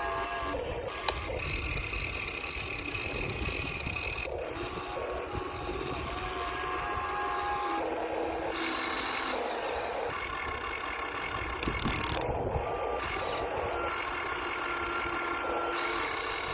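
Electric motors and gearboxes of Huina radio-controlled excavators whining as they work, the pitch stepping and changing every few seconds as different functions start and stop.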